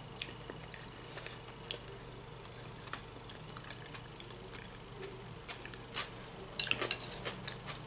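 A person chewing a mouthful of fresh vegetable salad (tomato, cucumber, onion), with faint wet mouth clicks. Near the end comes a short run of sharper clicks and clatter.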